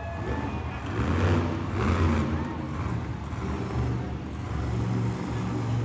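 Monster truck engine revving, its low rumble swelling and easing in repeated surges.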